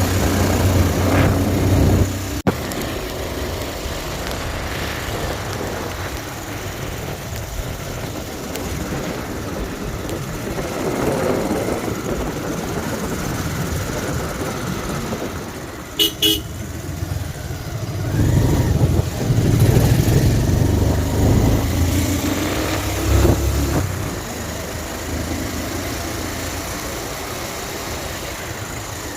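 Motorcycle engine running on the move, louder near the start and again past the middle, with one short horn beep about halfway through.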